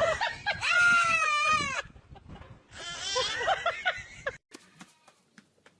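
An animal calling: two long, wavering cries, the second starting just under a third of the way in, then a few faint clicks near the end.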